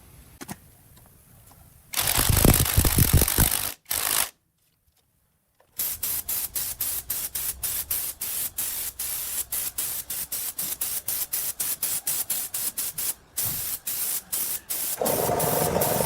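Loud air hissing, first as one long burst and then as many short bursts with brief breaks between them. Near the end a steadier, lower hum joins in.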